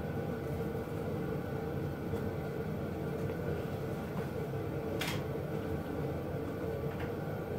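Steady background hum with a faint steady tone, and a single sharp click about five seconds in.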